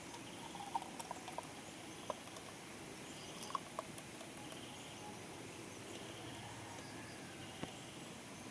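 Quiet outdoor campsite ambience: a steady hiss with short, trilling chirps repeating every second or so, and a few light clicks and taps scattered through it.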